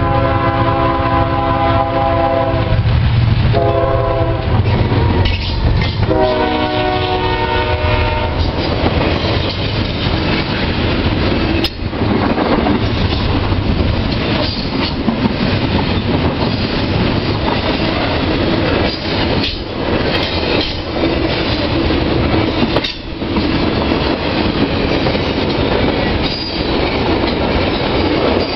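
Locomotive horn sounding three blasts for the crossing (long, short, long), ending about eight seconds in. A double-stack intermodal freight train then rolls past close by, its wheels clattering over the rail.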